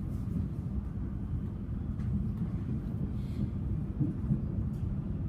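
Steady low rumble of a Siemens suburban electric train running along the track, heard from inside the carriage.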